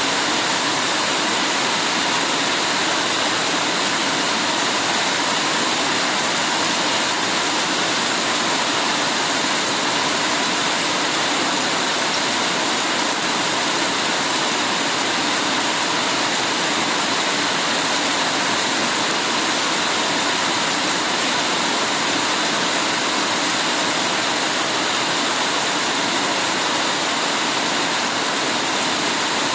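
Heavy rain falling steadily: a dense, even hiss with no separate drops, thunder or other events standing out.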